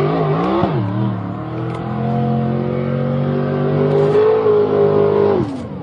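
Car engine revving: blipped up and down, then held at steady high revs for a few seconds before the revs drop off near the end.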